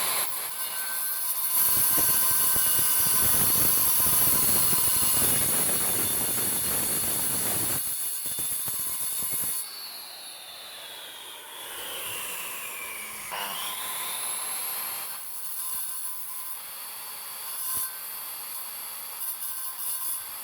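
Angle grinder cutting steel strap, with a harsh, loud cutting noise for the first eight seconds or so. The motor then winds down with a falling whine, spins back up about 13 seconds in, and runs on with lighter cutting.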